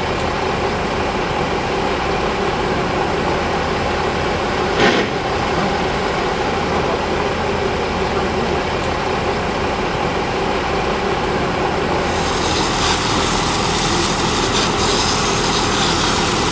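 Steady rumble of an idling vehicle engine, with one brief sharp noise about five seconds in and more hiss joining about twelve seconds in.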